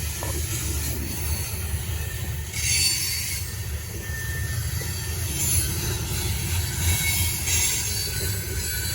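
Freight train cars rolling past with a steady low rumble of wheels on rail. Twice a high-pitched hiss and faint squeal from the wheels rises over the rumble.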